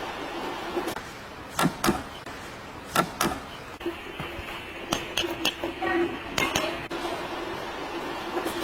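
About a dozen sharp clicks and knocks, several in quick pairs, over a faint steady hum.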